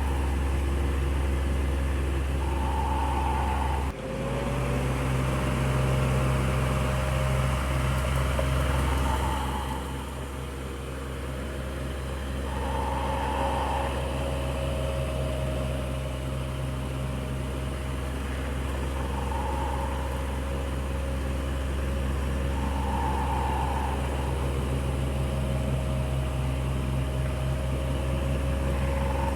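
Electric fan running steadily: a motor hum with a low rumble and the rush of air from the blades. About four seconds in the sound dips briefly and the hum shifts, and a soft higher note comes and goes every few seconds.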